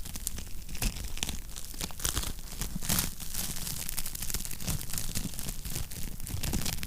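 Wood fire crackling in a fireplace: dense, irregular snaps and pops over a low rumble.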